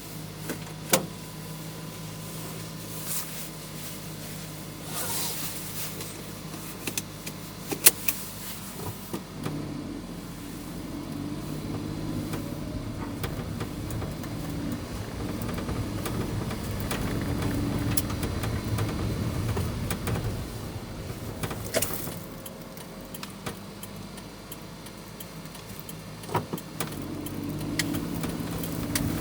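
Mini-truck engine running steadily after a start, with a few sharp clicks and knocks from the cab. It grows louder about a third of the way in and eases back down about two-thirds through.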